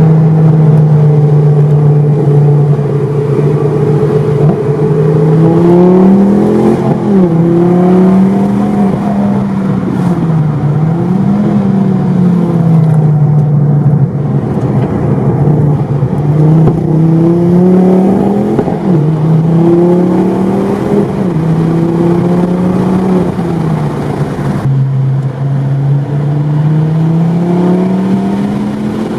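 Ford Focus ST Mk2's turbocharged 2.5-litre inline-five running loud through a catless straight-pipe exhaust. Its note holds steady for the first few seconds, then repeatedly climbs and drops as the engine is revved up and let back down.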